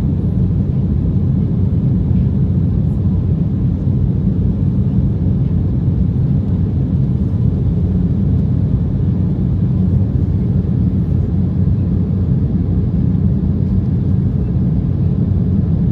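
Steady cabin noise inside an Embraer 190 airliner: its General Electric CF34 turbofans and the rush of air along the fuselage make an even, low rumble with no change in pitch.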